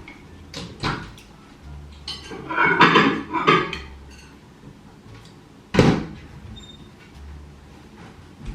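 Cutlery clinking and scraping on plates during a meal, with a louder clatter about two to four seconds in and one sharp knock about six seconds in.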